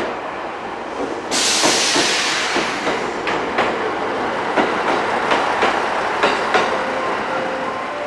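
Smart BEST prototype battery-electric train rolling slowly along the platform, its wheels clicking over rail joints at a slowing pace. A sudden loud hiss starts about a second in and fades over a few seconds, and a faint squeal of the brakes begins near the end as the train comes to a stop.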